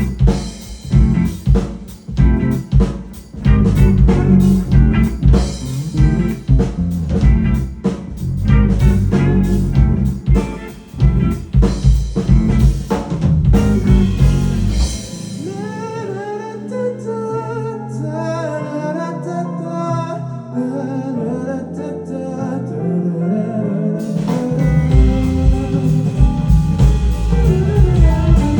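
Live rock band playing with drums, bass and electric guitar. About halfway through, the drums and bass drop out for a quieter passage, and the full band comes back in near the end.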